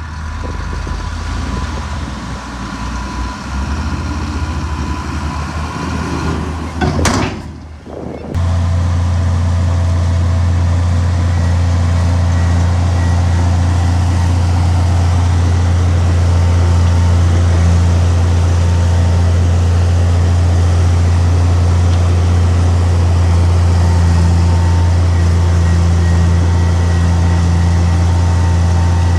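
Heavy diesel vehicle engine running, varying at first, with a short sharp hiss about seven seconds in, then settling into a loud, very steady low drone.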